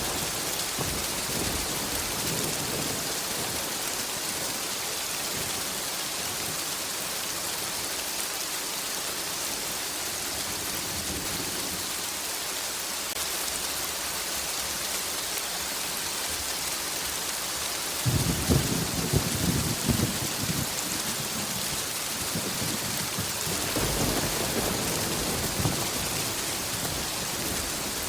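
Steady heavy rain hissing, with rolls of thunder: a rumble fading away at the start, a louder crackling peal about two-thirds of the way through, and another low rumble near the end.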